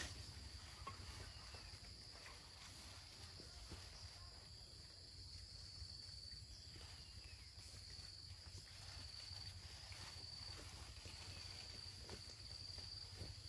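Faint forest ambience of insects chirring: one steady high-pitched drone that wavers slightly, with a few soft knocks scattered through it.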